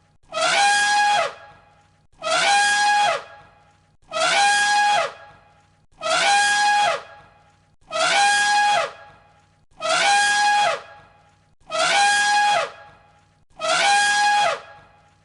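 Elephant trumpeting: the same short trumpet call repeated as an exact loop about every two seconds, eight times. Each call lasts about a second, a brassy held tone that drops in pitch as it ends.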